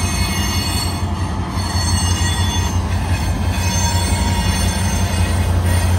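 A freight train passing close by, led by EMD diesel locomotives: a steady low engine drone over the rolling of wheels on rail, with faint high squealing from the wheels. It grows a little louder near the end.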